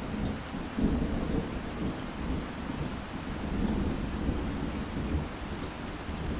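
Steady rain with a long rolling rumble of thunder that swells in just before and surges on and off throughout.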